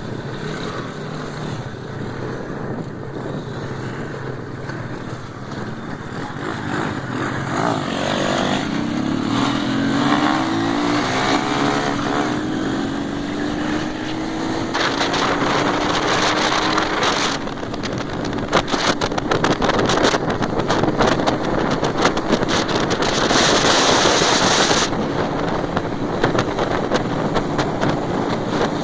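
Motorcycle engine running and accelerating, its tone rising over several seconds and then holding steady. A dense crackling noise sits over it through the second half.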